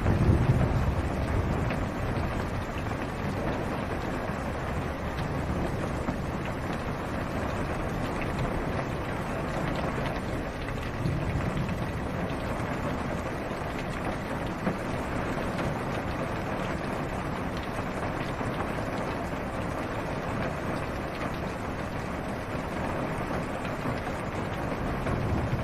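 Steady rain falling on a car's roof and windows, heard from inside the car, with a low thunder rumble swelling at the start and again briefly around the middle.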